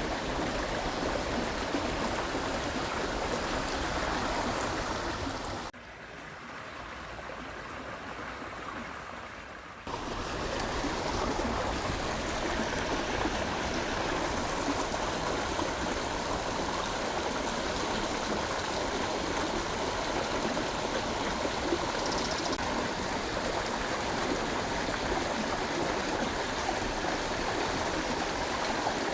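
Flowing water of a stream or channel running steadily, dropping quieter for about four seconds a fifth of the way in.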